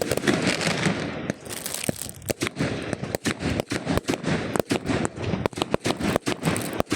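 Fireworks crackling: a dense, irregular run of sharp pops and cracks, some louder than others.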